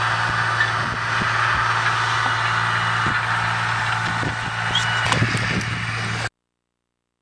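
A steady engine-like mechanical hum with a constant low drone, which cuts off abruptly about six seconds in as the recording ends.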